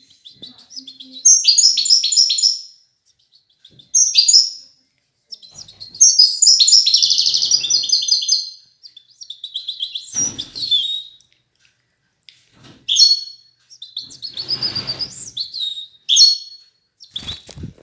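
European goldfinch (chardonneret) singing: repeated bursts of quick, high twittering phrases separated by short pauses.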